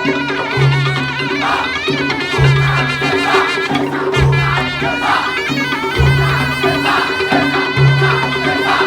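Madurese tong-tong (dhaul) ensemble playing: a reedy wind instrument carries a wavering, ornamented melody over steady held tones and heavy low drum strokes about every one and a half seconds.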